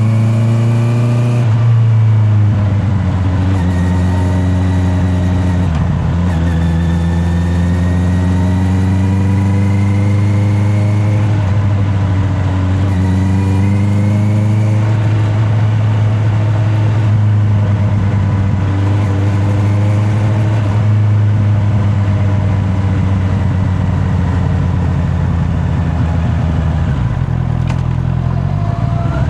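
Honda CB650R inline-four engine running on the road, heard from a mic in the rider's back pocket. Its note drops about a second and a half in and again around six seconds, rises gently in between, and climbs sharply near the end under acceleration.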